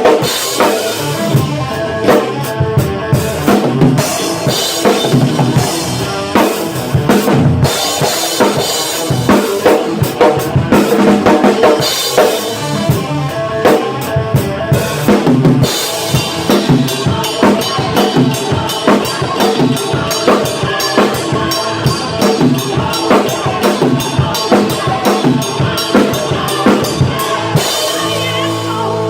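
Rock drum kit played hard, with bass drum, snare and cymbal strikes over a musical backing. From about halfway the hits come faster and more evenly spaced.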